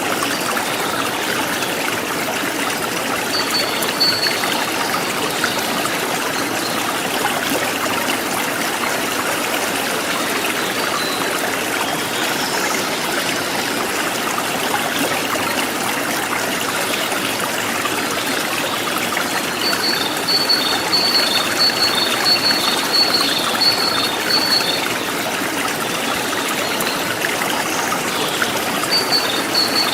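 River stream water flowing steadily over stones, a constant rushing and trickling. Runs of short, high chirps repeat quickly above it, about 4 seconds in, for several seconds from about 20 seconds in, and again near the end.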